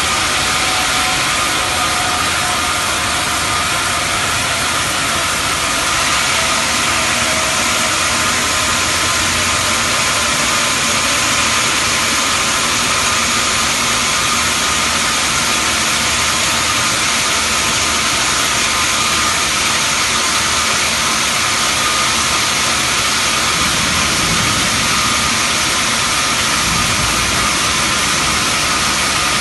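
Xianda CHJJ-1500 CNC bandsaw cutting a marble block: a loud, steady machine noise with a hiss and a thin whine, unchanging throughout.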